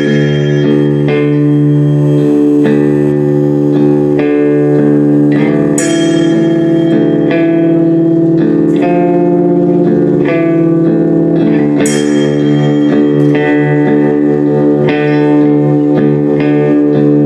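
Live band music: guitar chords struck and left to ring over a sustained held note, with a loud new chord about every six seconds.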